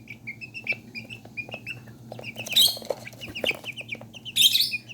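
Young Serama bantam and pheasant-cross chicks peeping over and over in short chirps, with two louder, harsher bursts about two and a half and four and a half seconds in. A faint steady low hum runs underneath.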